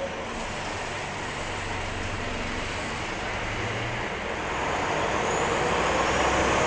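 Scania L94-UB city bus diesel engine running under way with road noise. The engine note rises a little, then the overall noise grows louder over the last couple of seconds as the bus picks up speed.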